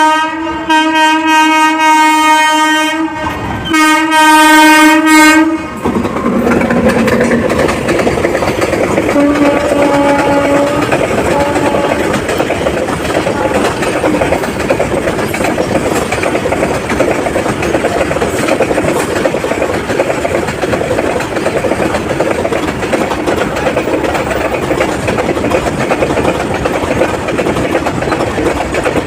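Locomotive horn of a goods train held in a long blast with a brief break, cutting off about six seconds in. Then the steady rumble and clickety-clack of the freight wagons running through the station without stopping.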